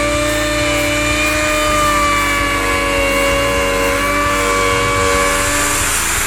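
Corded power tool motor running under load while cutting the port opening in a wooden subwoofer box, a steady whine that sags slightly in pitch and stops near the end.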